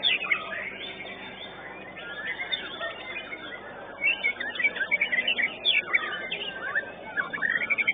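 White-rumped shamas (murai batu) singing in a contest, a busy tangle of overlapping chirps and whistles that grows busier and louder about halfway through.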